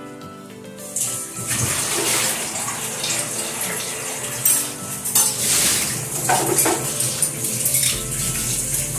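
Onion sofrito with turmeric and ají amarillo sizzling in oil in a stainless steel pot, with the hiss picking up about a second in. A metal spoon clinks against the pot a couple of times near the middle.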